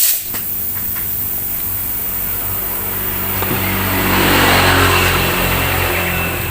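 Engine noise of a passing motor vehicle, swelling about four seconds in and easing off again, over a steady low hum.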